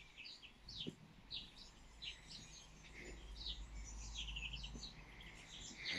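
Birds chirping: many short, faint, high chirps overlapping, over a low steady hum.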